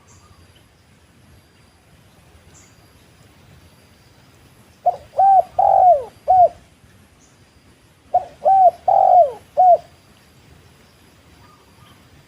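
Spotted dove cooing: two phrases of four short notes, the third note longer and falling in pitch, about three seconds apart.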